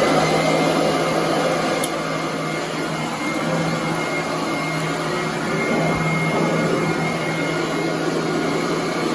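Royal commercial upright vacuum cleaner running steadily on carpet, its motor at full speed just after switch-on, with a steady low hum and a faint high whine.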